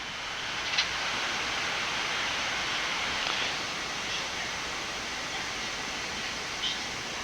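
Steady rushing hiss of a Boeing 787 flight deck during the taxi after landing, swelling over the first second and then holding even, with a few faint clicks.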